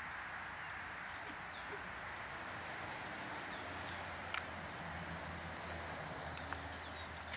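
Small garden birds chirping in short high calls over a steady outdoor rush, with a few sharp ticks, the loudest about four seconds in. A faint low drone joins about halfway through.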